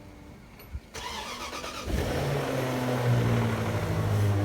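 2003 Range Rover engine started from cold: the starter cranks about a second in, and the engine catches just before two seconds and runs loudly and steadily. This is the initial cold-start noise the owner is showing; he says the engine runs absolutely fine after it.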